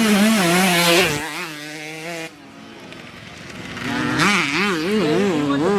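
Dirt bike engines racing past, revving up and down: one loud bike close by in the first second that fades off, then another coming in from about four seconds in, its pitch rising and falling several times a second as the throttle works.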